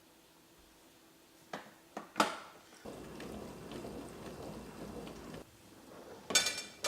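A dishwasher being opened and its plates handled: a few sharp clicks and knocks, about two and a half seconds of rattling noise, then plates clinking against each other or the rack near the end.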